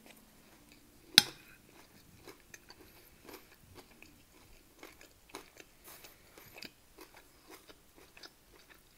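Chewing a mouthful of rice with beef mince: soft, wet mouth clicks, several a second. A single sharp click about a second in is the loudest sound.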